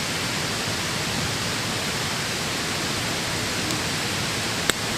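Steady rushing noise with one sharp click near the end.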